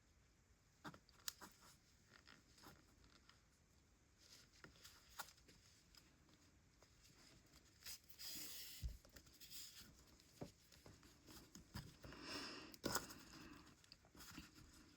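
Faint rustling with light scattered clicks from yarn being drawn through crocheted stitches and the small crocheted piece being handled, with short scratchy pulls of yarn about halfway through and again near the end.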